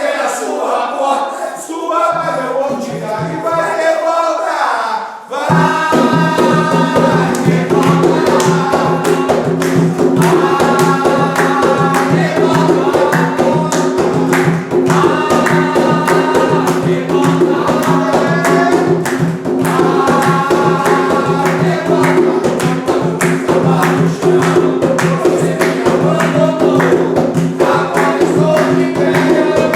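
Voices singing a ritual chant (a ponto cantado) unaccompanied, joined about five seconds in by music with a steady low note and quick, dense percussion, the singing carrying on over it.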